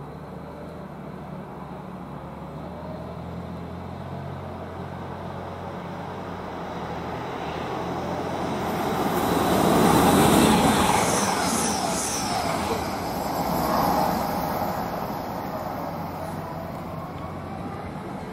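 Grand Central Class 180 diesel multiple unit running through the station without stopping. It grows from a distant rumble to its loudest as the front passes, about halfway through, then fades as the carriages go by.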